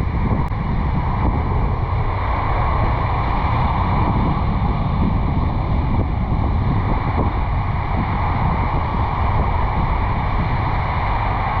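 Steady wind rush over a roof-mounted camera microphone on a moving car, over a low rumble of road and tyre noise.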